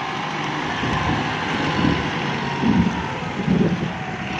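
Kubota MU5702 tractor's diesel engine running, with a few louder low pulses about two, three and three and a half seconds in.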